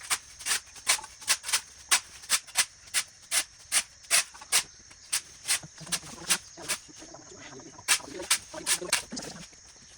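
A rapid series of sharp strikes, about two to three a second with a short pause partway through, over a steady high-pitched hiss.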